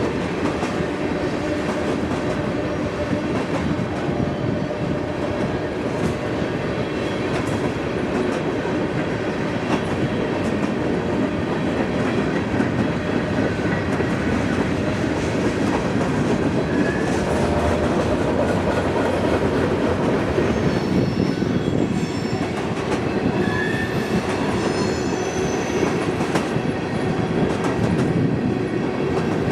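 CSX freight train's cars rolling past, a steady rumble of steel wheels on rail with clickety-clack, and a few short high wheel squeals between about twenty and twenty-five seconds in.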